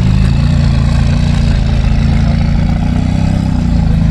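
A car engine idling close by, loud and steady, with a low even pitch that shifts only slightly.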